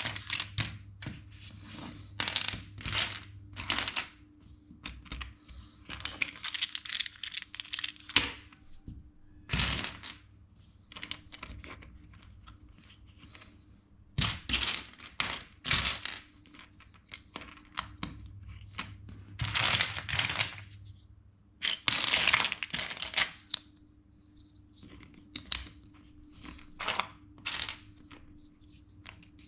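Plastic LEGO bricks clicking and clattering as they are handled and snapped together, in irregular bursts of sharp clicks and short rustles with pauses between.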